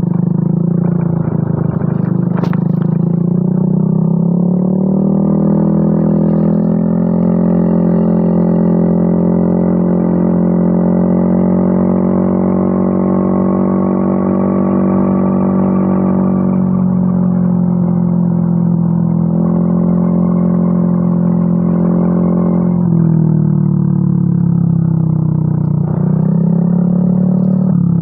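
Yamaha Mio M3 scooter's single-cylinder engine running through a WRX aftermarket exhaust, held at steady revs that rise and fall in small steps every few seconds.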